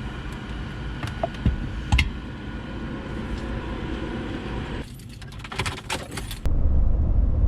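Road and engine noise inside a moving pickup truck's cab: a steady low rumble with scattered light clicks and rattles, a quick cluster of them about five to six seconds in. Near the end the rumble abruptly turns louder and duller.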